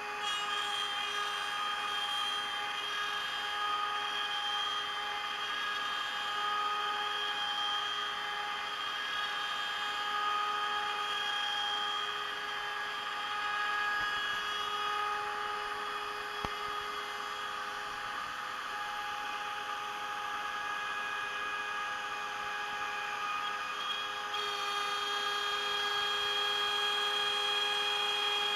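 CNC router spindle with a small 3.175 mm end mill milling 18 mm beech plywood: a steady high whine over the noise of the cut. About 24 seconds in the tone shifts slightly.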